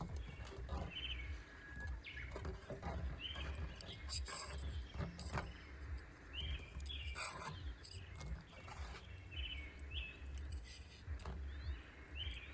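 A small bird chirping short calls about once a second over a steady low rumble of wind on the microphone, with scattered brief clicks and rustles.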